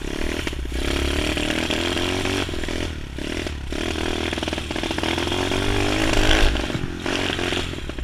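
Honda SR125 pit bike's small engine running while being ridden, its pitch climbing and falling with the throttle. It drops off briefly about three seconds in and again near seven seconds, with the loudest rev just before the second drop.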